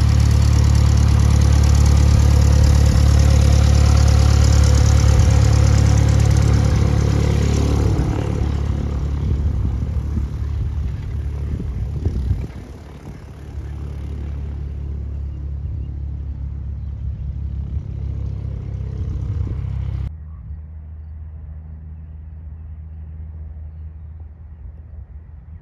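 Light aircraft piston engine and propeller, loud at first and then fading away over roughly a dozen seconds, over a steady low rumble. The sound drops off suddenly about twenty seconds in.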